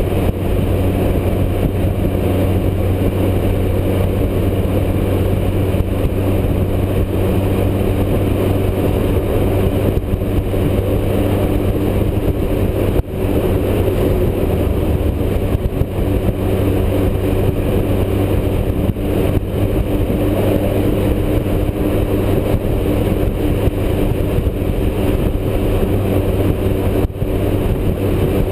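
Motorcycle engine running steadily at highway cruising speed, its pitch holding even, with wind noise rushing over the microphone.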